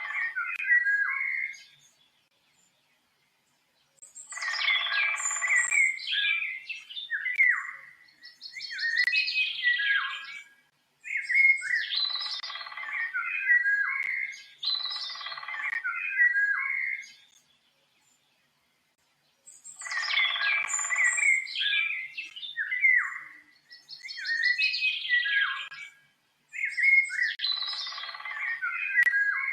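Songbirds chirping and singing in dense runs of quick notes and trills, broken by brief silences. The same sequence of phrases recurs about every 15 seconds, as in a looped recording.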